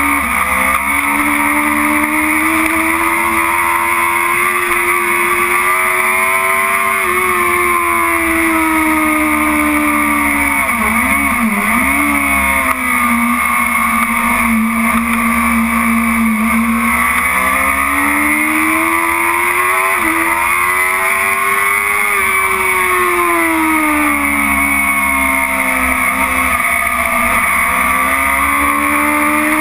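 BMW S1000RR's inline-four engine at racing speed, heard from on board. It climbs in pitch, drops with quick throttle blips on downshifts about ten to twelve seconds in, then rises and falls twice more.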